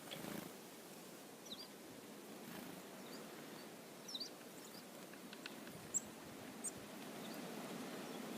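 Chickadees giving a few faint, short, high chirps, scattered a second or more apart, over a steady outdoor background hiss.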